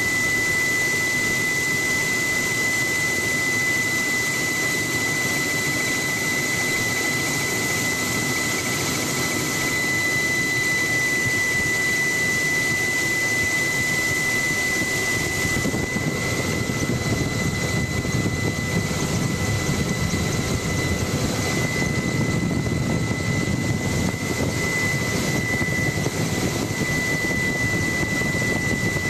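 Helicopter running in steady flight, heard from aboard: a constant broad rumble of engine and rotor with a steady high turbine whine over it.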